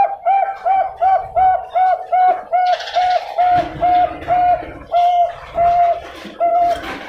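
Bangkok-type perkutut (zebra dove) singing: a rapid, evenly paced run of about seventeen short cooing notes on one pitch, spacing out slightly near the end.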